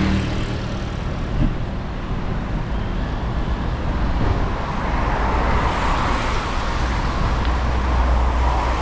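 Road traffic on a rain-wet street: engines running low and tyres hissing on the wet road, the hiss swelling as a vehicle passes about five to eight seconds in.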